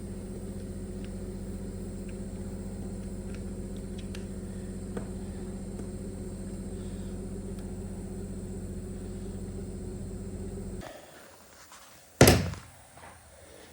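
A steady machine hum with a few faint light clicks, which stops about eleven seconds in; about a second later, a single loud thunk like a heavy part being set down.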